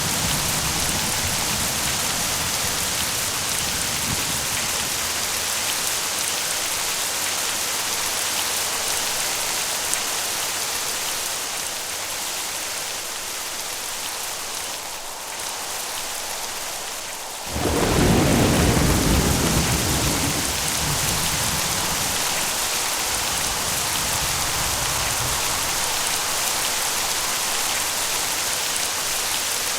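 Steady rain falling, with thunder: a low rumble dies away in the first few seconds, then a sudden loud thunderclap a little past halfway rolls on for several seconds.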